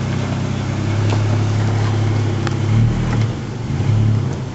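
Nissan Frontier pickup's engine running at low speed while rock crawling. Its note grows louder about a second in and swells and dips as the throttle is worked, with a few faint sharp knocks.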